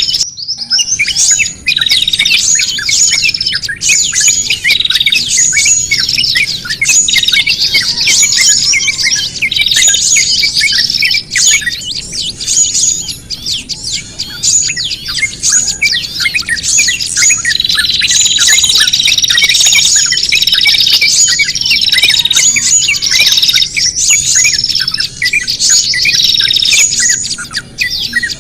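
Bird-trapping lure recording of many small songbirds chirping and squawking over one another in a dense, agitated chorus. It is meant to sound like birds mobbing one caught in distress, to draw small birds in. There is a brief break just after the start.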